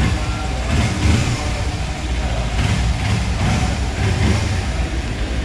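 A motorcycle engine running with a low, steady rumble.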